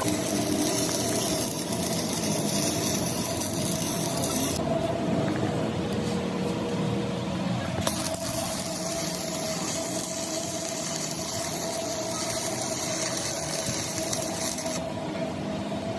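A lathe running steadily: a constant hum under an even hiss, with the hiss changing character a few times.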